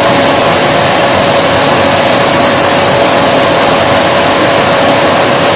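Vacuum cleaner running continuously: a steady, unbroken rush of air with a constant mid-pitched hum from the motor.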